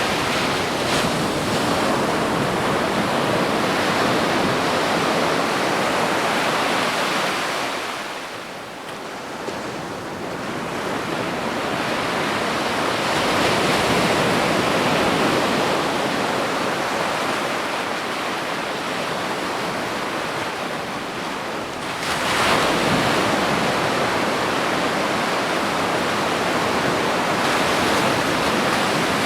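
Ocean surf washing onto a beach: a continuous rushing of breaking water. It eases off about eight seconds in, builds again, and a fresh wave breaks with a surge about 22 seconds in.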